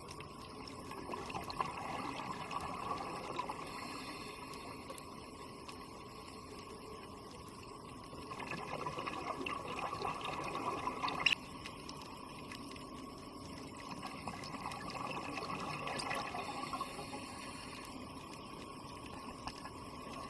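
Water noise, likely recorded underwater: a steady watery hiss that swells in bubbling surges every six or seven seconds and cuts off suddenly about eleven seconds in.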